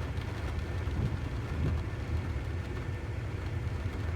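Steady low rumble of a vehicle idling, with a faint constant hum above it.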